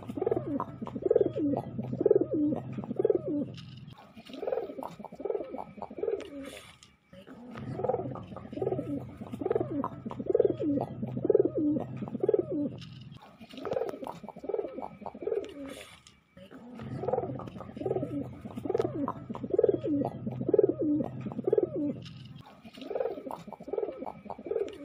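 Domestic pigeon cooing: runs of quick, rolling coos lasting a few seconds each, repeated about six times with short pauses between.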